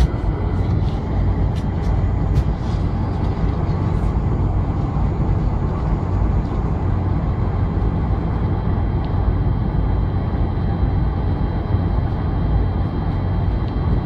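Steady cabin rumble of a Boeing 747 airliner: engine and airflow noise heard from inside the passenger cabin, even in level with a low hum underneath.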